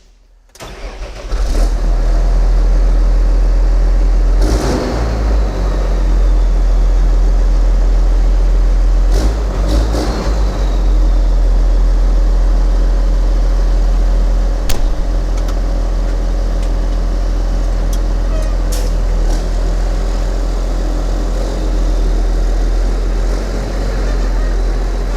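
Tractor diesel engine starting about half a second in, then running steadily, with a few sharp clunks along the way.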